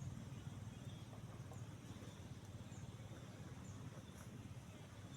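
Quiet outdoor ambience: a steady low hum with faint, short, high chirps of small animals scattered through it.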